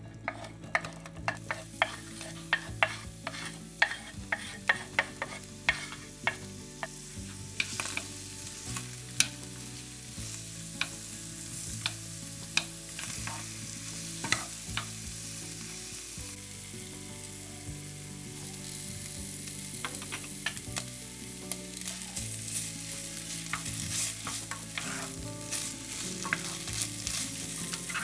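Food frying and sizzling in a pan while it is stirred, with many sharp utensil clicks against the pan in the first half. The sizzle settles into a steady hiss from about eight seconds in.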